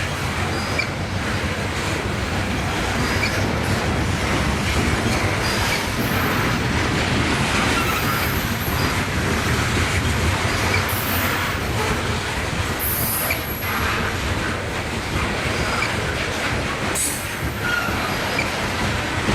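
Freight train cars rolling past on steel rails, a steady rumble with rail clatter and several brief high-pitched wheel squeals.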